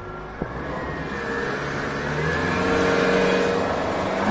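Yamaha F200XB four-stroke outboard motor throttling up, its engine note rising in pitch and getting louder as the boat accelerates.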